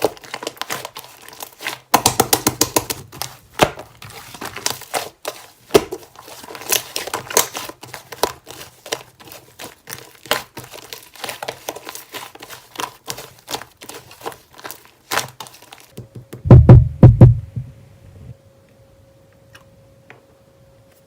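Slime being squeezed and worked by hand, giving dense, irregular crackling and popping clicks. Near the end come a few loud, low thuds, and then it goes quiet.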